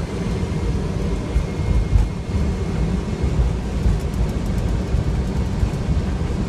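Boeing 757 jet airliner during takeoff: a loud, steady low rumble of engines and airframe, with uneven bumps and a few faint rattles.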